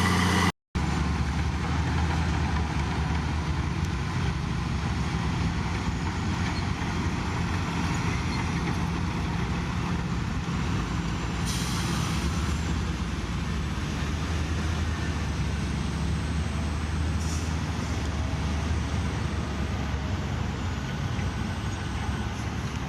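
Heavy diesel engine of construction machinery running steadily, with a short hiss about halfway through. The sound drops out briefly just under a second in.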